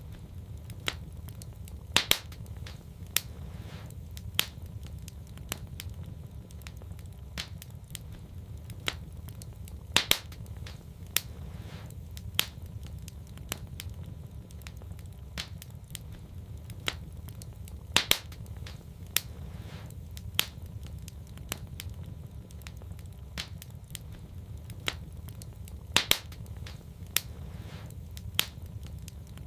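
Wood fire burning in a fireplace: a steady low rumble with sharp crackles and pops scattered throughout, the loudest pops coming back about every eight seconds.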